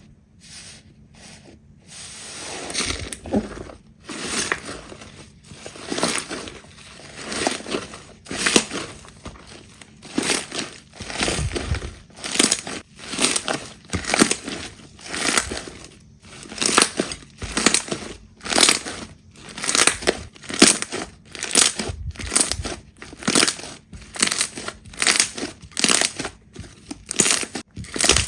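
Slime being squeezed and pressed by hand in repeated crackly squishes, about one a second at first and quickening to nearly two a second.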